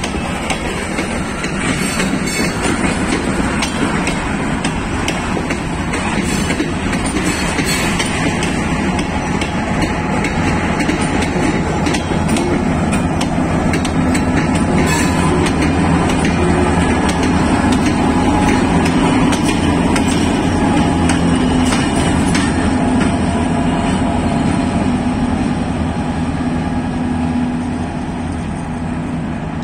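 Loaded freight cars rolling slowly past on the adjacent track, wheels clicking and clattering over the rail joints, then two diesel-electric road-switcher locomotives passing close with their engines running in a steady low drone that is loudest about two-thirds of the way through and eases near the end.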